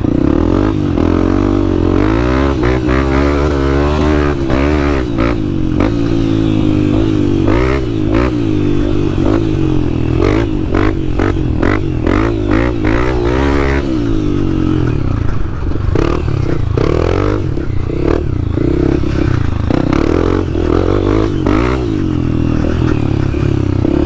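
Dirt-bike engine revving up and down with the throttle as the bike is ridden over a motocross track, with a run of clattering knocks and rattles in the middle stretch.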